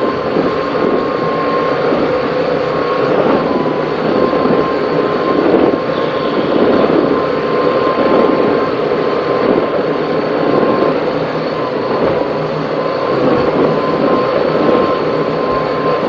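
Twin engines of an offshore powerboat running hard at speed through rough sea, a dense steady din of engine and hull noise, with a thin high tone held throughout.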